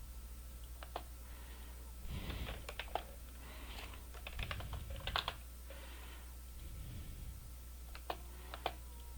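Computer keyboard typing: short, irregular clusters of key clicks, over a low steady hum.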